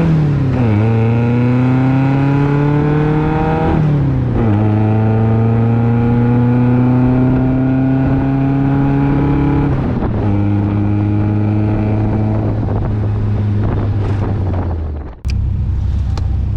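Sports car engine accelerating up through the gears: the pitch rises steadily, drops at each gear change about half a second, four and ten seconds in, then climbs again. About fifteen seconds in the sound cuts out abruptly and a steadier, lower engine sound follows.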